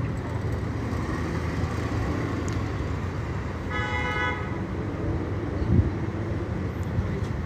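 Steady street traffic rumble, with one short car horn toot about four seconds in.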